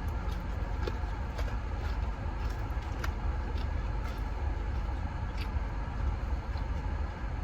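Steady low rumble of a motor vehicle, with faint scattered crunching clicks from chewing fried chicken wings.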